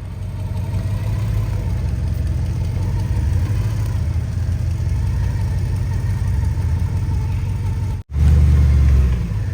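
Engine of a big-wheeled off-road competition 4x4 running steadily under load, a continuous low drone. It cuts out for a split second about eight seconds in, then comes back louder for about a second before settling.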